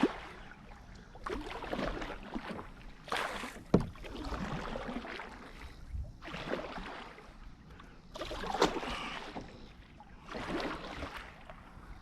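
Kayak paddle strokes: the blades swish and splash through pond water about every one to two seconds, unevenly, with a couple of sharp knocks among them.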